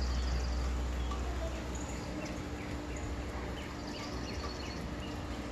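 Backyard songbirds calling: a rapid high trill near the start and again near the end, with short falling chirps in between, over a low rumble.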